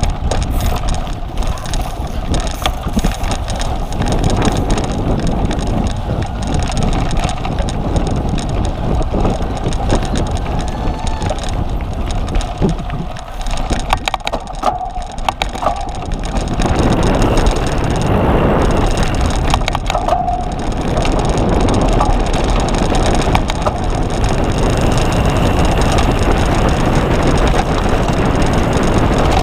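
Cyclocross bike ridden hard over rough dirt and grass, its tyres crunching and frame rattling continuously, with wind on the microphone; the noise gets louder a little past the middle.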